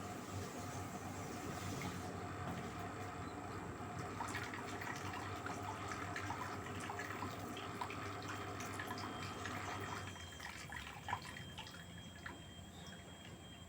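LG 8 kg direct-drive washing machine running, with water sloshing and dripping over a low steady hum. The hum and the water sound drop away about ten seconds in.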